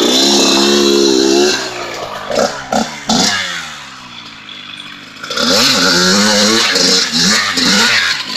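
100cc two-stroke Kawasaki KX dirt bike engine revving hard under load while the rider spins it round in a second-gear donut. The revs fall away and the engine goes quieter in the middle, then it revs up loud again for the last few seconds.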